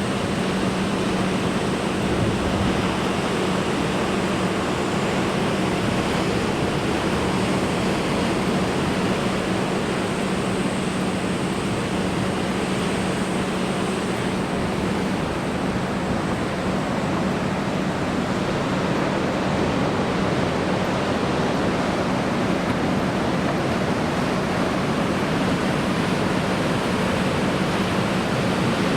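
Heavy surf from typhoon swell mixed with wind, a steady dense roar in which no single wave break stands out. A constant low hum runs underneath.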